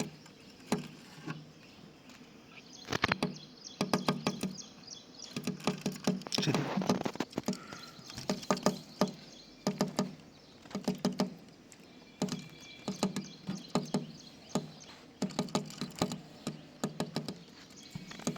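Small bird pecking with its beak, a series of sharp taps coming singly and in quick irregular runs, with a few faint chirps.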